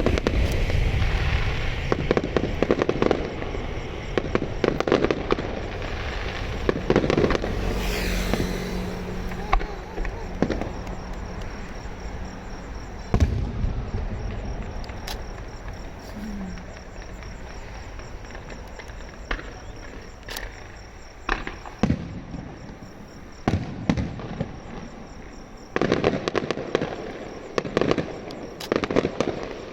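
Fireworks display: shells bursting with sharp bangs and trailing crackle at irregular intervals. The bangs come thickly at the start, thin out in the middle, and come in a rapid cluster again near the end.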